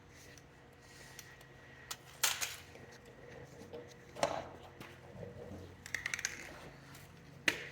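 A few scattered sharp metallic clinks and knocks of small metal objects being handled, with a quick run of clicks about six seconds in.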